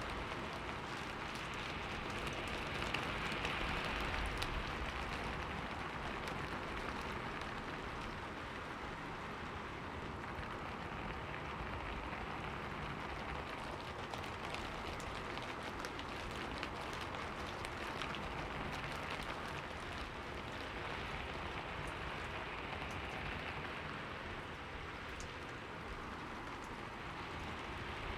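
Steady rain falling and pattering on surfaces, a continuous hiss with many fine drop ticks that swells gently louder and softer now and then.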